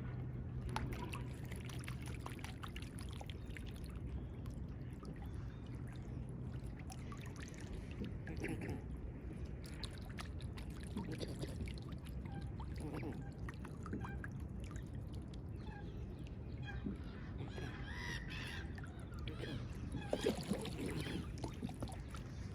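River water lapping and sloshing at the bank over a low steady rumble, with a few short goose calls scattered through.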